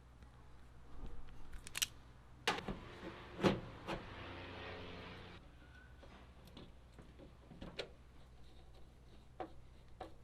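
Scattered knocks and clicks from handling parts inside a truck cab, with a whirring stretch of about three seconds starting about two and a half seconds in that cuts off suddenly.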